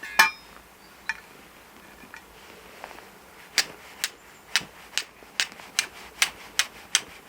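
Flint and steel being struck to throw sparks onto charred fungus: a sharp strike near the start and a couple of stray ones, then a steady run of about nine sharp clicks, a little over two a second.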